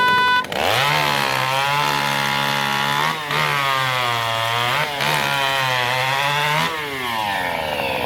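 A short steady start tone, then a racing chainsaw at full throttle cutting through a log for about six seconds, its pitch held steady under load with two brief breaks about three and five seconds in. Near the end the saw comes out of the wood and revs down.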